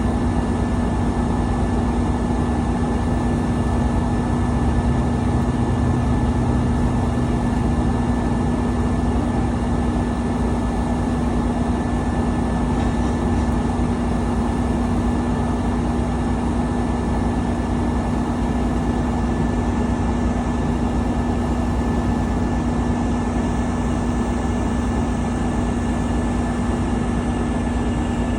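Steady road and engine noise of a car driving at speed, heard from inside, with a constant low drone and a faint high whine.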